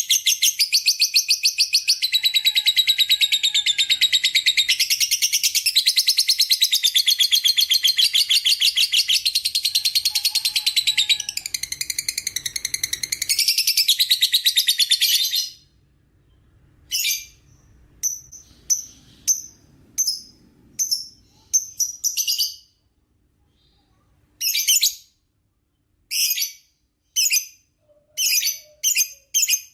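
Lovebird giving its long, rapid, high-pitched chattering trill ("ngekek") without a break for about fifteen seconds. It then breaks off into short bursts of chatter separated by pauses.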